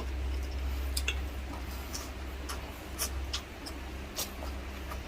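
Someone chewing food with the mouth close to the microphone: scattered short wet clicks and smacks, about one or two a second, over a low steady hum.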